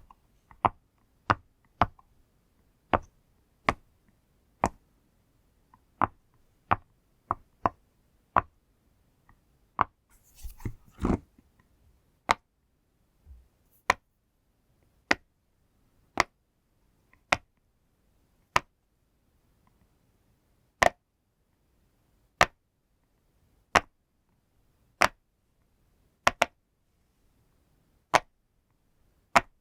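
Pop toy being pressed, one sharp pop at a time, about one to two a second at first and slowing to roughly one a second later. About ten seconds in there is a short rustle and a dull thump.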